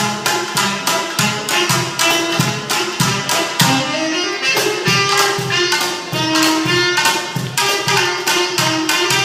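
Tsugaru shamisen, tenor saxophone and percussion playing together: rapid, sharp plucked strokes under long held melody notes that bend in pitch.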